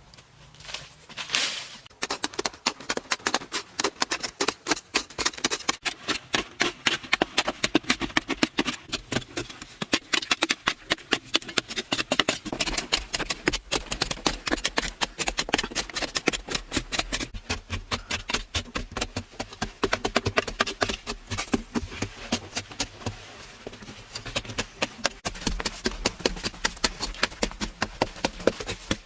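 A rapid, steady run of sharp knocks and scrapes, several a second, starting about two seconds in.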